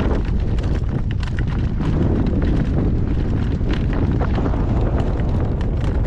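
Strong gale-force wind buffeting the microphone in a steady, heavy low rumble, with scattered faint clicks and knocks.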